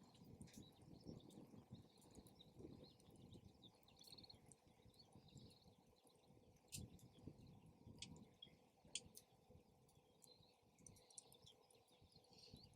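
Faint crackling of a wood campfire, with scattered sharp pops over an irregular low wind rumble. Small birds chirp faintly now and then.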